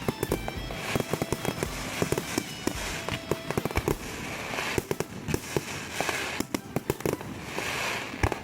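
Fireworks bursting close by: a rapid, irregular string of sharp bangs and crackles, with swells of hiss in between.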